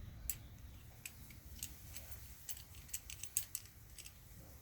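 Irregular light metallic clicks and taps from the parts of a slide-hammer T-bar dent puller being handled and fitted together, with the sharpest tick about three and a half seconds in.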